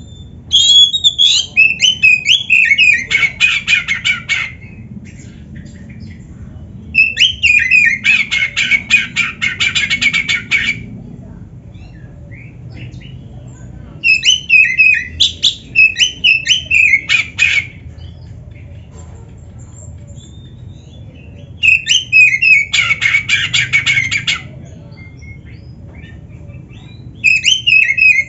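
Oriental magpie-robin (kacer) singing in bursts of about four seconds, each a warbled phrase falling in pitch followed by a fast run of rapidly repeated notes, its song laced with canary-like phrases. Five bursts come roughly every seven seconds, with short pauses between them.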